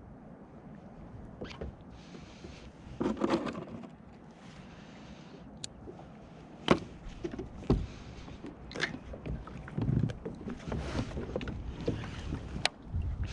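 Water sloshing against a fishing kayak's hull, with a few sharp knocks and clicks from gear and the boat scattered through, and two short bursts of splashing.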